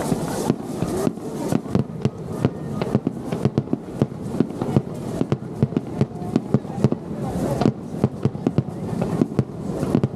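Wide starmine fireworks barrage: a rapid, uneven string of sharp bangs, several a second, over a continuous rumble of bursting shells.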